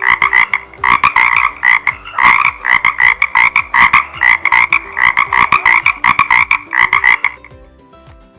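A frog calling: fast runs of rapid croaks, one series after another, stopping about seven seconds in.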